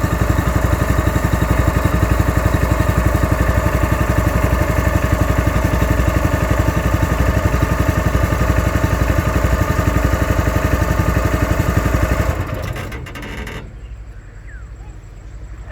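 Small petrol engine of a boat pump running steadily with a fast, even beat, then shutting off about 12 seconds in and winding down.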